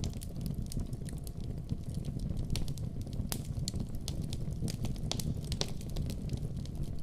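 Wood fire burning in a fireplace: a steady low rumble of the flames with frequent sharp pops and crackles, one louder snap a little past the middle.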